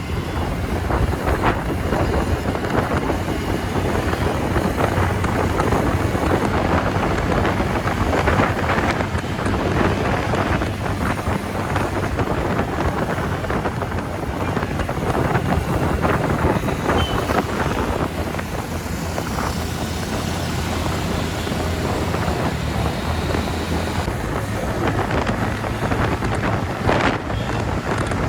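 Wind rushing over a helmet-mounted microphone while riding a TVS Ntorq scooter at road speed, with the scooter's single-cylinder engine and tyre noise running as a steady low drone underneath.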